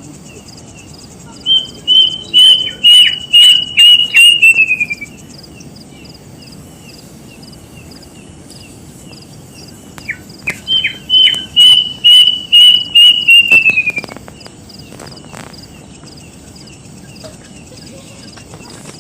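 A bird singing two phrases, each a run of repeated sharp whistled notes that ends in a falling slur. A faint steady high-pitched buzz runs underneath.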